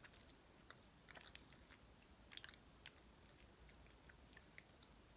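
Faint chewing of a soft chocolate snack cake, with scattered soft mouth clicks.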